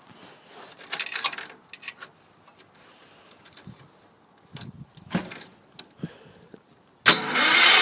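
Light clicks and rattles of the key and controls being handled, then about seven seconds in the Wheel Horse C-105 garden tractor's starter starts loudly cranking the engine in a cold start at about minus three degrees, the engine reluctant to fire.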